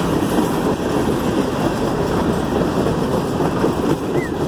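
Freight train cars rolling past close by: a steady, heavy rumble of steel wheels on the rails.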